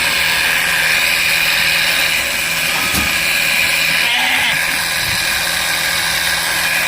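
Motorized spray machine running steadily while pumping chemical through a hose, with an even high-pitched drone.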